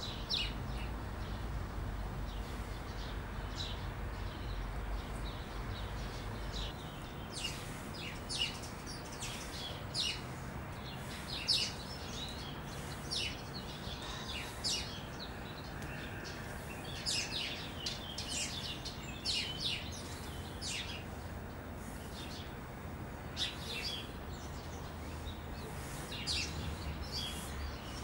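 Small birds chirping: many short, high chirps, sparse at first and coming thick and fast from about a quarter of the way in, over a low steady background rumble.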